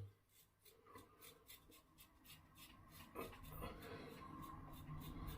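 Faint scratching of a Gillette Slim Twist double-edge safety razor cutting through lathered stubble in quick short strokes, about five a second.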